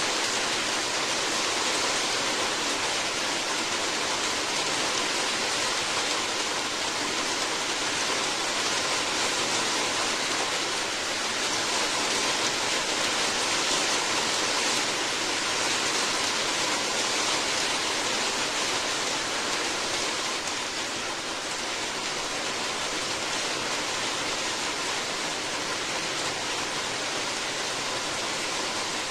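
Steady, even rain: a continuous hiss of falling water, easing slightly about two thirds of the way through.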